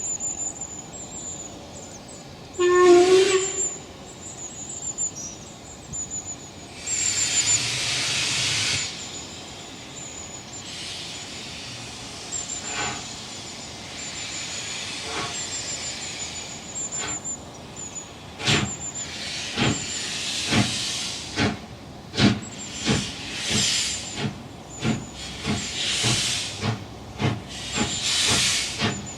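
Steam locomotive giving a short whistle blast about three seconds in, followed by a burst of steam hiss. About two-thirds of the way through, slow, regular exhaust beats begin as the locomotive sets off.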